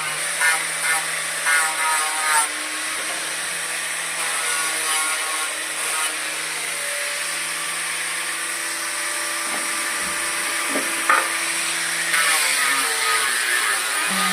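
Electric woodworking power tool running steadily on wood, with a few louder bursts in the first two seconds and a sharp click about eleven seconds in.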